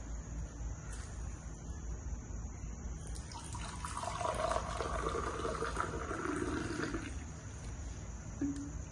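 Running water, louder for about three seconds in the middle, over a steady low hum.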